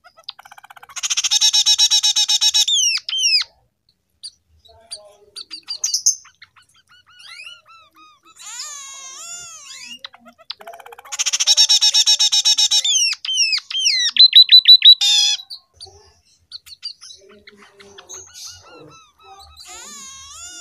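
Scaly-breasted munia (emprit peking) singing a canary-like song learned from canaries: two loud, fast trilled phrases, one about a second in and one about eleven seconds in, with whistled up-and-down glides and chirps between them and a run of sharp, rapid notes around fourteen seconds.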